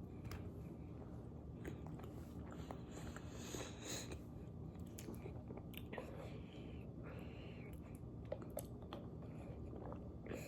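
Someone chewing and biting into chicken nuggets close to the microphone: faint, scattered crunches and mouth clicks over a low steady hum.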